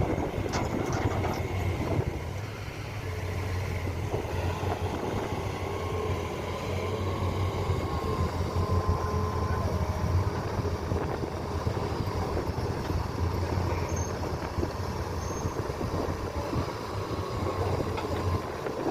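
Heavy diesel machinery running steadily: a low engine drone with rumbling, rattling noise over it.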